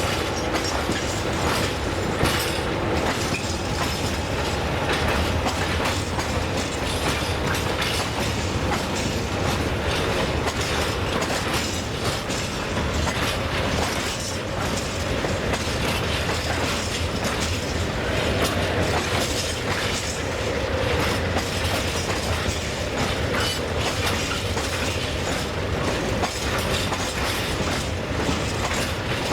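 Railway wagons rolling past, the wheels clattering steadily over rail joints.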